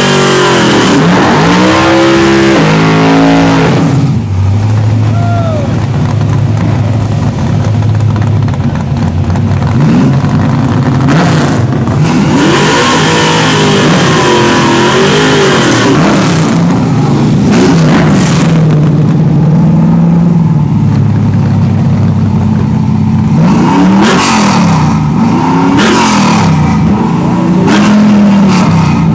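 Drag-racing Chevrolet Camaro's engine revved hard in repeated swells, rising and falling in pitch, during a burnout, with a steadier lower drone between the rev swells.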